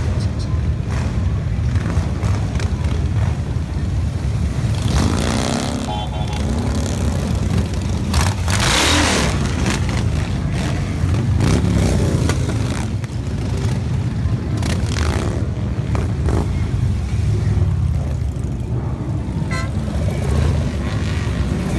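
Motorcycle engines running together in a steady low rumble, with one bike passing close and louder, its pitch gliding, about eight seconds in.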